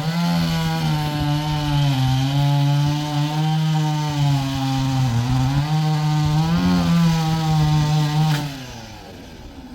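STIHL MS 381 two-stroke chainsaw held at high revs for about eight seconds, its pitch dipping briefly about five seconds in, then winding down as the throttle is released near the end.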